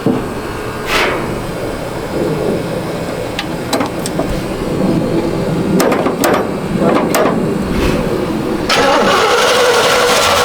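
A 350 small-block Chevy V8 in an old pickup running roughly, with a few sharp clicks along the way. About nine seconds in it picks up to a louder, steady run. It is running on fresh fuel after contaminated old gas was drained.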